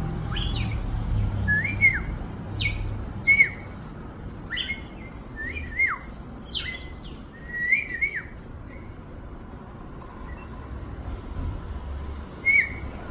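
Small songbirds chirping: a series of sharp, separate calls, each a quick drop in pitch, some ending in a short hooked whistle, with pauses between them.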